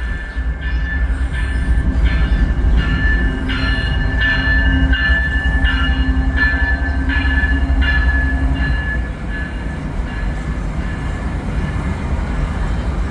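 Level-crossing bell ringing about twice a second over the heavy low rumble of an approaching CN freight train. The bell strokes fade about nine seconds in while the rumble carries on.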